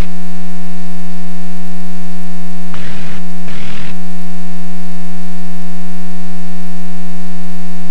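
Loud, steady electrical buzz, a low hum with many overtones, on the cockpit radio and intercom audio, with two short bursts of hiss about three seconds in.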